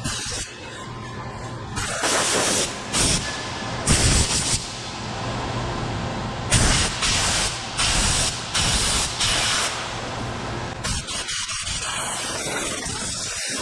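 Spraying hiss in several spurts, over a steady low machine hum; the hiss stops about eleven seconds in.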